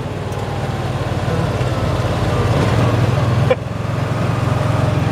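A motor vehicle's engine running steadily and slowly getting louder, with a click about three and a half seconds in where the level suddenly drops.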